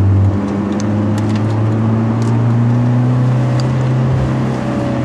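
Hyundai Genesis Coupe 2.0's turbocharged four-cylinder engine running under way, with a steady low engine note. The note drops briefly just after the start and dips again about four seconds in.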